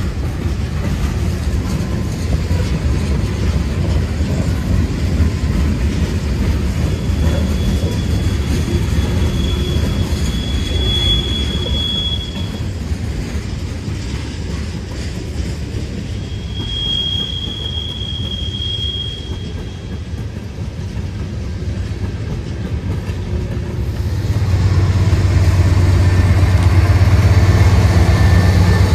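Train cars rolling past with a steady rumble of wheels on the rails and two long, high-pitched wheel squeals. Near the end a low diesel locomotive engine drone comes in and grows louder.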